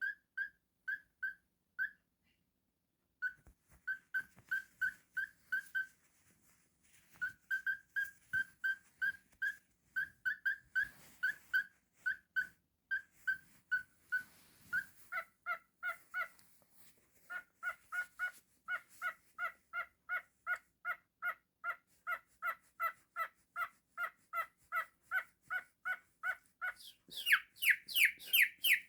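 Cockatiel calling in a long run of short, evenly spaced chirps, about two to three a second, with a couple of brief pauses. Partway through, each call becomes a two-note chirp, and near the end the calls grow louder and higher, each rising in pitch.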